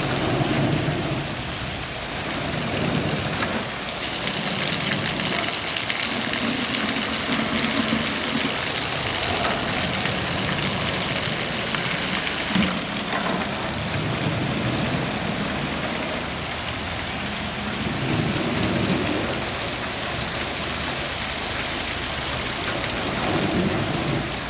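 Heavy rain falling steadily, with low rumbles swelling and fading every few seconds and a single sharp knock about halfway through.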